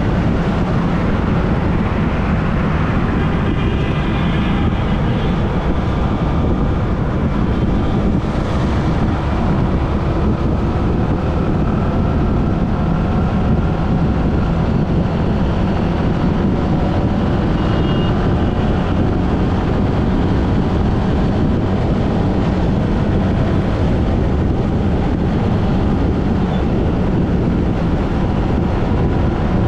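Dhaka Metro Rail train running: a steady, unbroken rumble with faint high tones above it.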